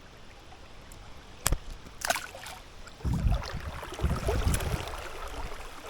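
River water splashing and sloshing close to the microphone, with two sharp clicks about a second and a half and two seconds in, then heavy low splashes near the middle.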